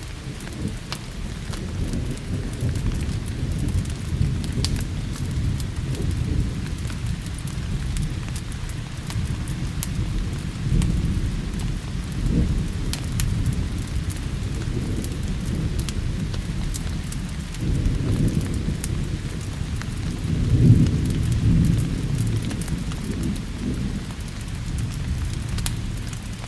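Steady rain with thunder rumbling low and continuously, swelling several times and loudest about twenty seconds in.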